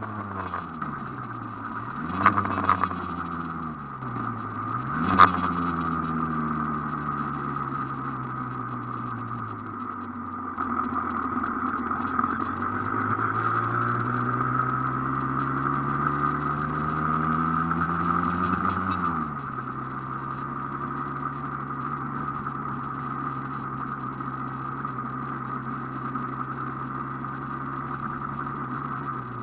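Aprilia AF1 two-stroke motorcycle engine under way: revs fall and rise several times in the first few seconds, with a sharp crack about five seconds in. Later the revs climb steadily for several seconds, then drop back to a steady low note, with a steady higher hum throughout.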